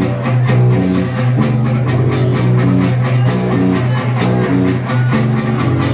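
Live rock band playing an instrumental stretch between vocal lines: a repeated electric guitar riff over a steady bass line, with the drum kit keeping an even cymbal beat.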